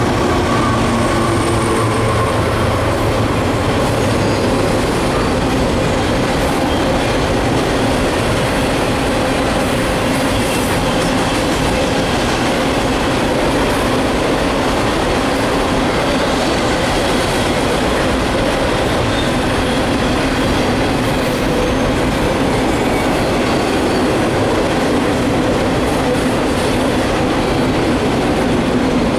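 A train passing close by: its cars rolling over the rails in a loud, steady, unbroken rumble of wheels on track.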